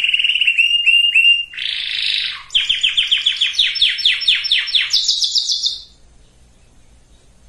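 Domestic canary singing a run of rapid trills: a fast roll, a short buzzy phrase, a series of quick repeated notes, then a higher, faster trill. The song breaks off about six seconds in.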